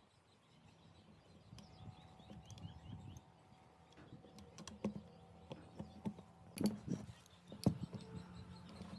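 Faint, scattered clicks and taps of hand tools or small parts being handled, with a few sharper knocks in the second half.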